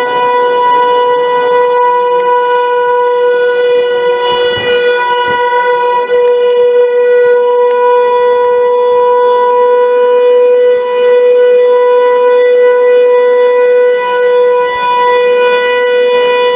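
Outdoor warning siren sounding a single steady, loud tone that holds one pitch without rising or falling.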